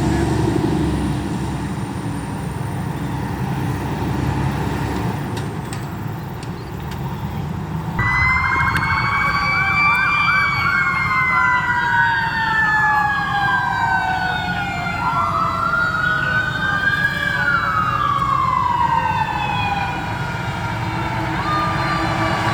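A vehicle rumble, then about eight seconds in an emergency vehicle siren starts up in a slow wail, its pitch sweeping up and down over several seconds, with more than one siren tone overlapping.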